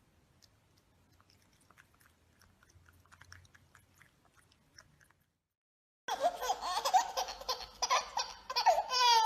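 Faint scattered clicks, then after a sudden cut a person laughing loudly in high-pitched peals whose pitch wavers rapidly.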